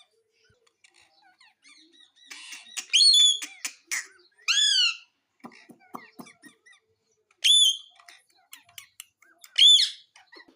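Pet parrot giving four loud, short squawks, each rising then falling in pitch, spaced a couple of seconds apart, with soft clicks and ticks between them.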